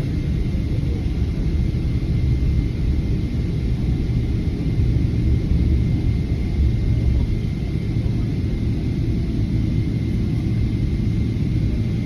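GE90-115B jet engines of an airliner running, heard as a steady, loud low rumble with a thin, steady high tone above it.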